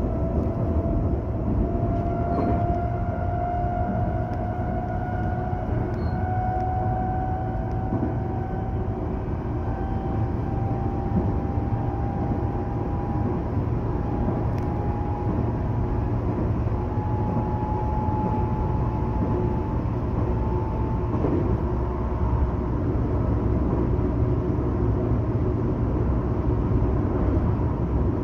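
Electric train running, heard from inside the passenger car: a steady rumble of wheels and body, with a traction-motor whine that climbs slowly in pitch as the train gathers speed and fades out about two-thirds of the way through.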